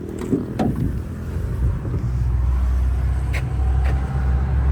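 Low, steady engine rumble that grows louder about two seconds in, with a couple of knocks near the start and a few light clicks later.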